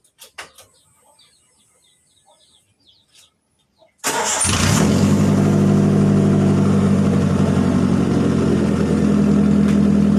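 Faint clicks and bird chirps, then about four seconds in an engine starts suddenly and runs steadily through a loud aftermarket 'blar blar' exhaust.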